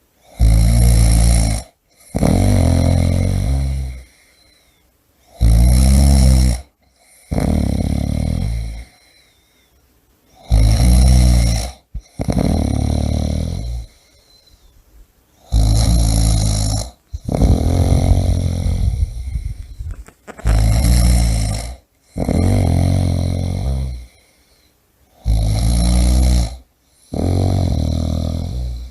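A person snoring in a steady rhythm. Each breath is a loud rattling snore followed by a softer, longer one, then a short pause, about every five seconds, six times.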